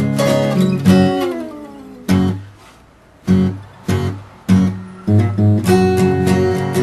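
Guitar music, strummed. About a second in it thins out to a few separate ringing chords, then busy strumming picks up again near the end.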